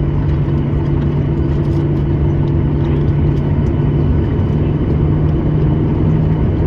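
Airliner cabin noise while taxiing after landing: a steady low rumble from the jet engines with a constant droning hum, and faint scattered clicks.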